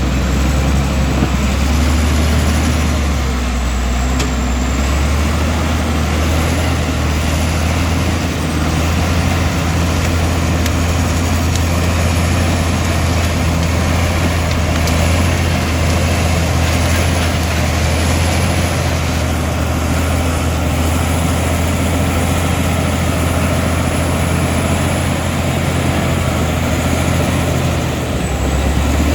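Komatsu D65E bulldozer's diesel engine running steadily with a deep, constant drone.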